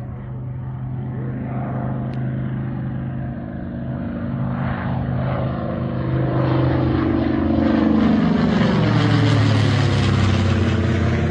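Aircraft engine running with a steady low drone. It grows louder about halfway through, and near the end its tones sweep in pitch as it goes by.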